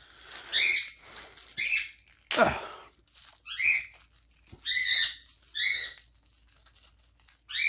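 A pet bird gives a series of short chirps, about one a second, over plastic packaging being crinkled by hand. There is one sharp tap a little over two seconds in.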